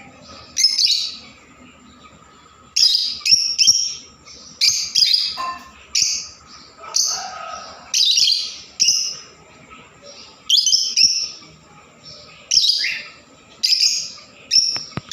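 Small pet birds chirping: sharp, high chirps that come singly or in quick clusters, about once or twice a second.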